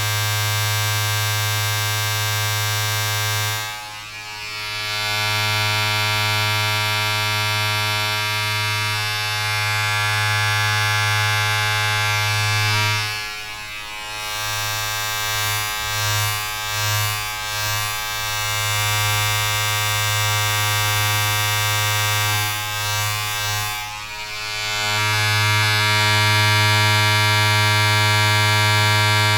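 A small electric motor buzzing steadily with a strong low hum. It dips briefly a few times and wavers unevenly for a couple of seconds near the middle.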